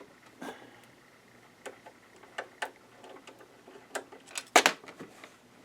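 Scattered small clicks and taps of a screwdriver and loose screws being handled while a screw is taken out of the sewing machine's base, with one louder clack about four and a half seconds in.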